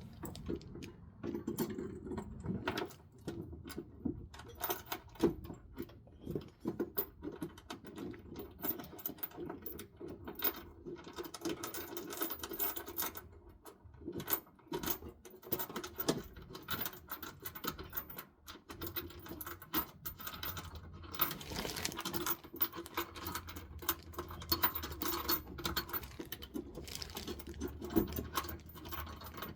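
Small metal hardware clicking and jangling: bolts being loaded with lock washers and flat washers by hand, in many quick irregular clicks.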